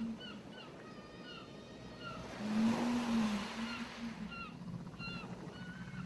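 A wave washes onto the shore, swelling about two seconds in and fading over the next two, while birds chirp in short repeated calls. A low wavering tone sounds briefly during the wave.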